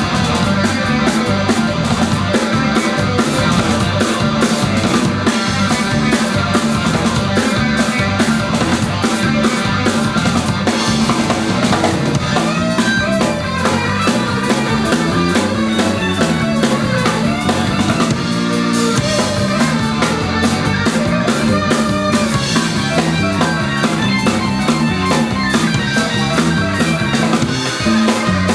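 Live band playing a song: drum kit keeping a steady beat under guitar.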